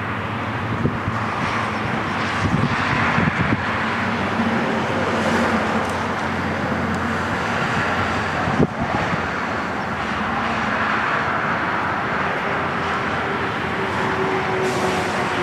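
Air Tractor AT-802 crop duster's single turboprop engine running steadily, with a held tone that slowly falls near the end. A single sharp tap sounds a little past the middle.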